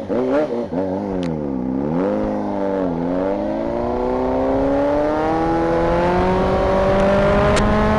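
Motorcycle engine whose pitch drops twice as it slows, then climbs slowly and steadily for several seconds under acceleration.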